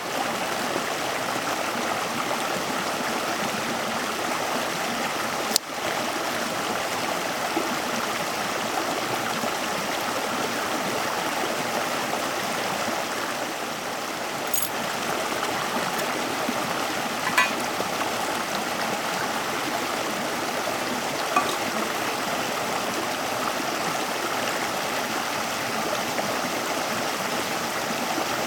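Steady rushing of flowing water, like a stream, with a couple of faint sharp ticks partway through.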